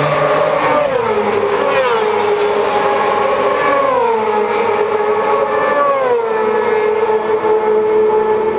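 Supersport racing motorcycles at high revs, a loud, high-pitched engine note that drops in pitch in steps about four times.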